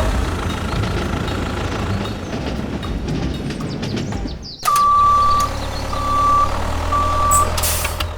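Truck engine rumbling. About halfway through, after an abrupt change, a reversing alarm beeps three times over the low engine rumble.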